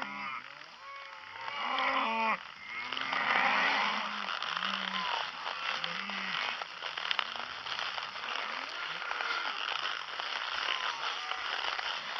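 Cattle mooing: a long moo ending about two seconds in, then many shorter, low moos from the herd over a steady rustling noise.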